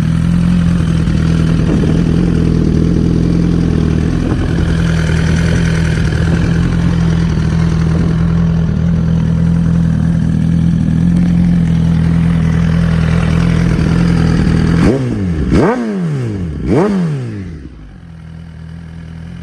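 Suzuki GSX-R1000R's inline-four engine idling steadily. About three-quarters of the way through, the throttle is blipped three times in quick succession, each rev rising and falling sharply, before it drops back to a quieter idle.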